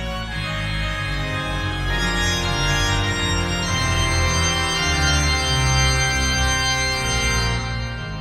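Organ playing sustained, changing chords, swelling a little in the middle and easing off near the end.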